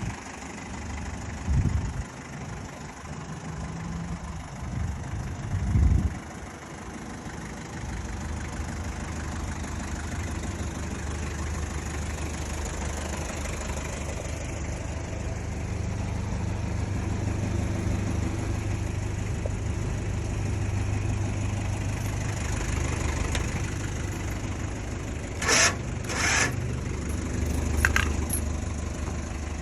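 An engine running at a steady idle. Near the end there are three short, sharp scraping or clanking noises, two close together and then one more.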